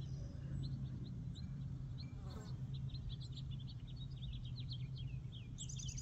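Small songbirds chirping, many short high chirps in quick runs, over a steady low hum.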